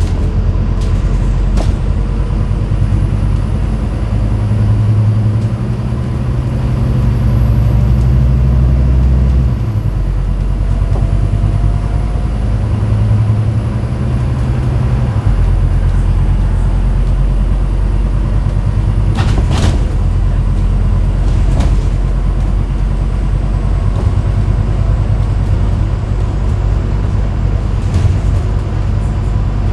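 Scania N250UD double-decker bus under way, heard from the top deck: the deep drone of its five-cylinder diesel changes pitch and level a few times as it pulls and eases off. A few short knocks and rattles from the bodywork come through, one early on and several in the second half.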